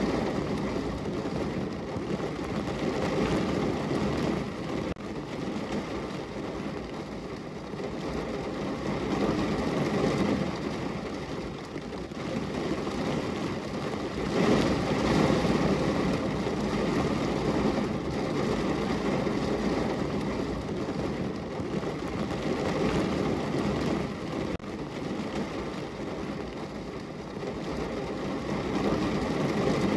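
Steady rain pattering on a window pane, a continuous noise that swells and eases every few seconds.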